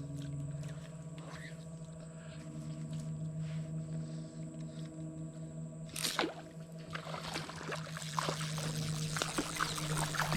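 A steady low hum, with a sharp knock about six seconds in, then water sloshing and trickling with small clicks and splashes.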